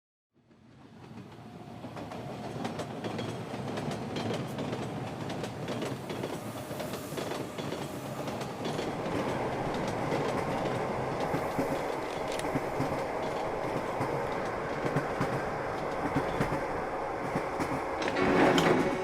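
Train running on rails, its wheels clattering over the rail joints; it fades in over the first couple of seconds and swells briefly near the end.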